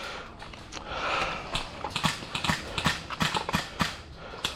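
Airsoft rifle fired semi-automatically: a quick, irregular run of sharp snapping shots, about two or three a second.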